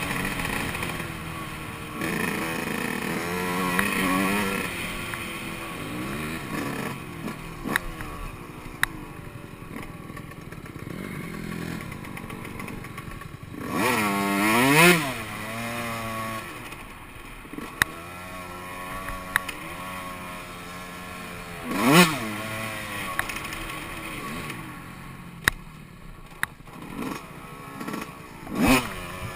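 Yamaha YZ125 two-stroke dirt bike engine riding a trail, its pitch rising and falling with the throttle, with the loudest bursts of revs about halfway through and again about three-quarters in. Scattered sharp clicks and knocks sound over the engine.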